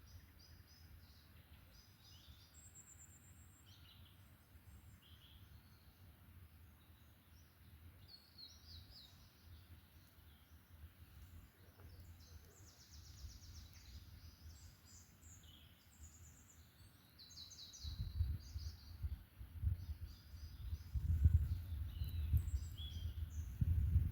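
Several songbirds singing and calling in a forest, short high chirps and trills from many directions. About three-quarters of the way through, a low, uneven rumble sets in and becomes the loudest sound.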